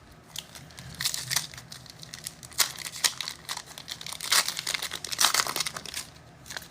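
Trading-card pack wrapper crinkling and tearing as packs are ripped open and the cards handled, in a quick run of short crackles.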